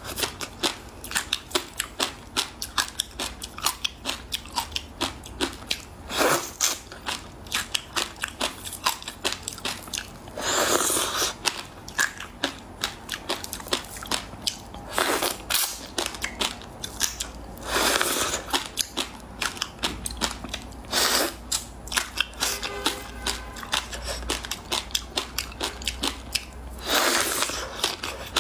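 A person biting and chewing frozen passion fruit ice close to the microphone: dense, rapid crunching, with a louder crunching bite every few seconds.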